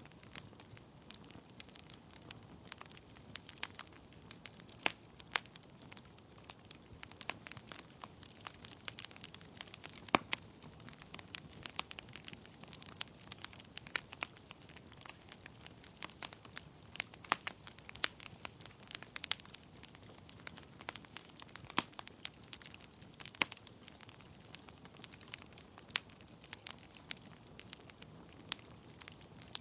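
Wood fire in a fireplace crackling: irregular sharp pops and snaps from the burning logs over a faint steady hiss of the flames.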